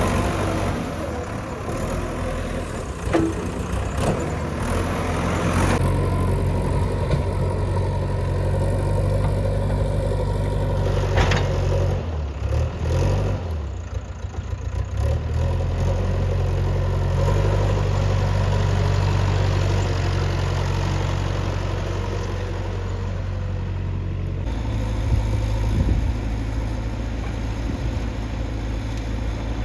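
Diesel engine of a JCB 3DX backhoe loader running steadily under working load. Its note shifts about six seconds in, wavers and dips briefly around the middle, and changes again near the end as the engine load changes.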